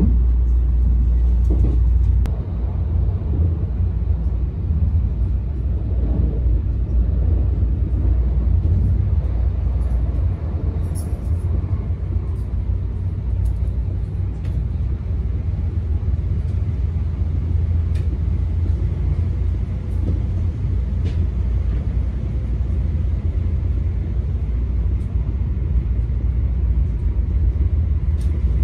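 Cabin noise of a Tokaido Shinkansen Kodama train running along the line: a steady low rumble with faint ticks and rattles.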